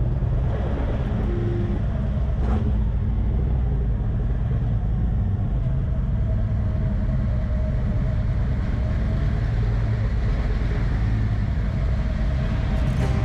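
Motorcycle running steadily at road speed, a loud low rumble with no breaks.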